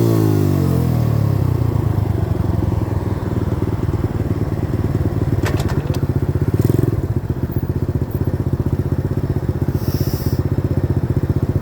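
90cc dirt bike engine dropping in revs as the throttle closes, then running steadily at low revs with even firing pulses. There is a brief click about halfway through.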